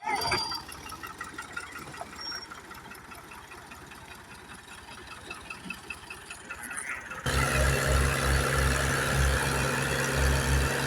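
Tractor diesel engine running with a fast, even chugging, fairly faint at first. About seven seconds in it cuts suddenly to a much louder steady hum with a throbbing low beat.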